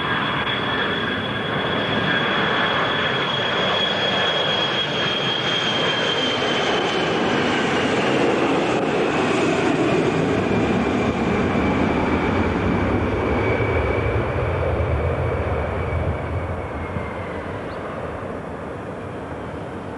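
Jet airliner engines passing by: a high whine that slowly drops in pitch over a broad rush of engine noise. It is loudest about halfway through and fades near the end.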